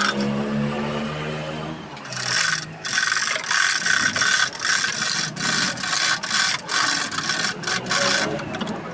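A ratchet being worked in quick strokes, a rattling run of clicks about twice a second, starting about two seconds in and stopping near the end.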